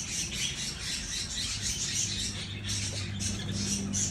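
Many birds chirping and squawking at once in rapid, overlapping calls.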